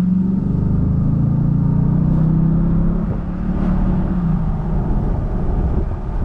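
Car engine running while driving, a steady low drone that holds its pitch and becomes less even after about three seconds.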